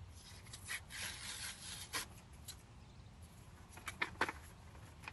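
Faint rustling and scraping handling noise, with a few short light clicks about four seconds in.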